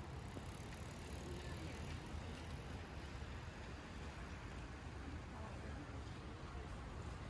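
Faint, steady background rumble and hiss of vehicle traffic, with no distinct events.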